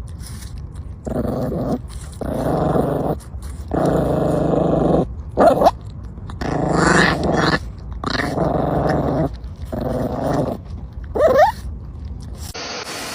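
A dog growling in repeated bouts of about a second each, broken by two short high yelps about five and eleven seconds in.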